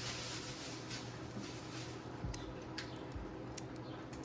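Faint clicks and crackles of a hard-boiled egg's shell being cracked and picked off by fingers with acrylic nails, a few sharp ticks from about two seconds in, over a steady low hum.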